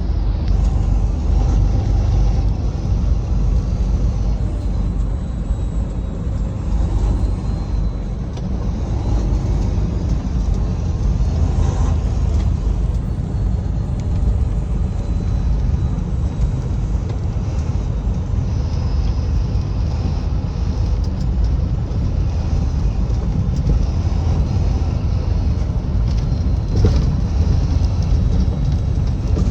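Steady low rumble of a vehicle travelling on a highway, engine and road noise without a break, with one brief louder knock near the end.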